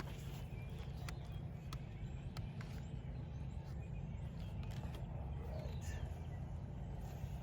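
Wind rumbling steadily on the microphone, with scattered light clicks and taps.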